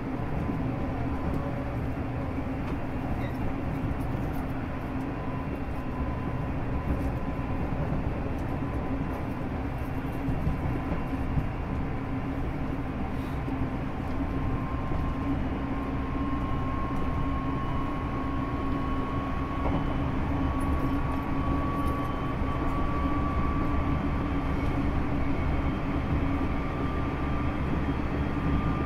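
JR Shikoku 8000 series electric limited express train running at speed, heard from inside the passenger car: a steady rumble of wheels on the rails with a thin whine that rises slowly in pitch in the second half, getting a little louder toward the end.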